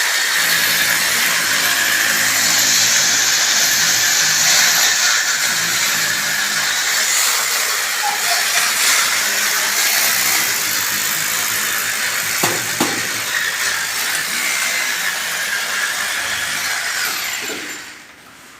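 A power tool runs steadily with a high, slightly wavering whine, then winds down and stops about 17 seconds in.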